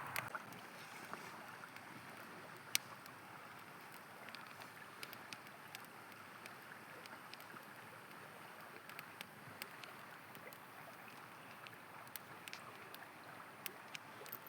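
Steady rush of a flowing river with a campfire crackling over it: scattered sharp pops, one much louder about three seconds in.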